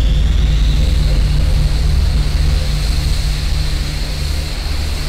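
Jet fighter engine running: a steady low rumble with a high whine that rises slightly, then eases back down.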